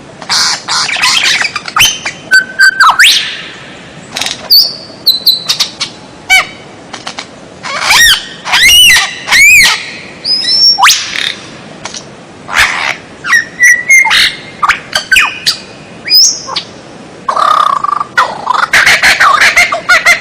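Recorded songbird calls played as a tutoring track: a loud, varied string of sharp chirps, rattling notes and swooping whistled phrases, with short gaps between them and a dense burst of chatter near the end.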